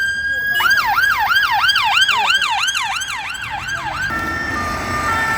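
Police car electronic siren: a held tone that switches about half a second in to a fast yelp of falling sweeps, about three a second. The yelp cuts off about four seconds in, leaving fainter siren tones that step between pitches over traffic rumble.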